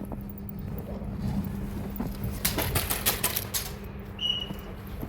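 Airsoft gun firing a quick burst of about nine shots, a rapid run of sharp clicking reports about two and a half seconds in.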